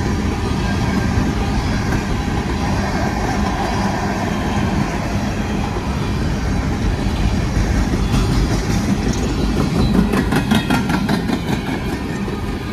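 Empty open-top coal cars of a freight train rolling past: a steady loud rumble of steel wheels on rail with a constant hum. In the second half a run of rapid clicking comes in as the wheel sets clatter over the rails.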